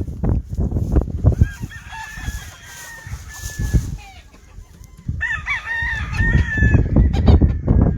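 Gamefowl roosters crowing, two long crows one after the other, over a loud low rumbling noise.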